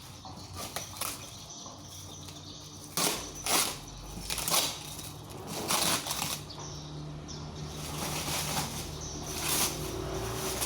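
Packaging rustling and crinkling in irregular bursts as a parcel is handled and opened, over a faint steady low hum.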